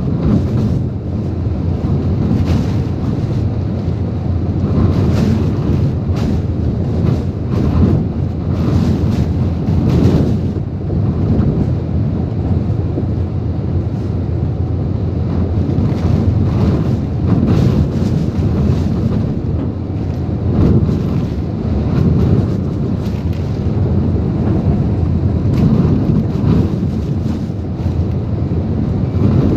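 Typhoon winds with driving rain, a loud continuous roar that surges and eases every second or two as the gusts hit, with heavy wind buffeting on the microphone.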